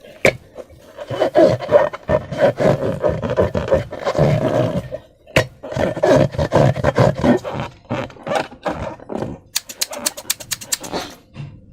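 Rubber balloons being squeezed and rubbed by hand with slime, giving a dense run of squeaking, crackling and squelching strokes. A quick run of sharp clicks comes near the end before it stops.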